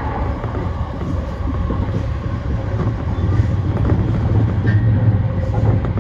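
JR East E235 series electric train running along the line: a steady rumble of wheels on the rails, growing a little louder about halfway through.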